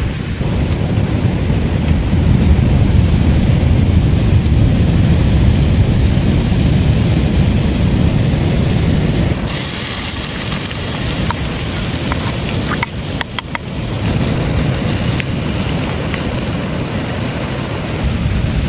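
Steady rush of waves with a heavy low rumble. About halfway through it cuts abruptly to a brighter hissing noise, with a few sharp clicks.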